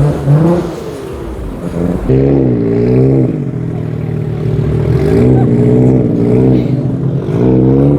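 A car engine revving hard, its pitch climbing and falling in repeated pulls: one about two seconds in, another around five seconds, and a third starting near the end.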